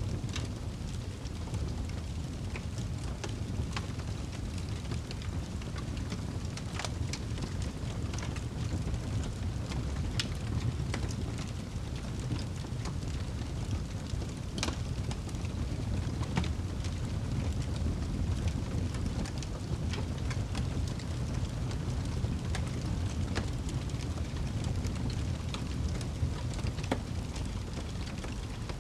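Wood fire crackling in a fireplace: a steady low rumble of flames with irregular sharp pops and snaps every second or so.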